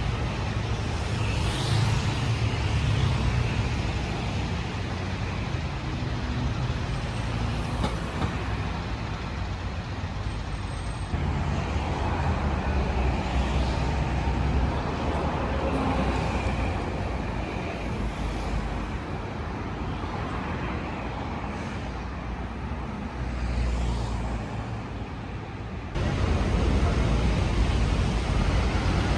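City street traffic: a steady rumble of cars, buses and trucks passing. The ambience changes abruptly twice, about a third of the way in and again near the end.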